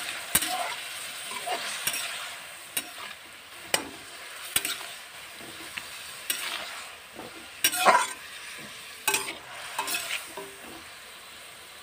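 Chopped tomatoes and onions frying in oil in a metal kadhai, sizzling steadily while a metal spatula stirs and scrapes them against the pan in irregular strokes.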